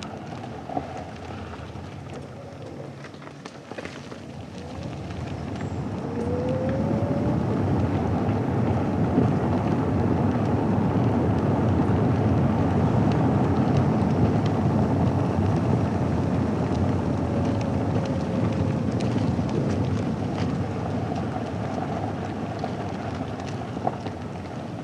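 A car's tyres rolling over a dirt and gravel road with a rumbling road noise. It builds a few seconds in, holds steady, and eases off near the end as the car slows.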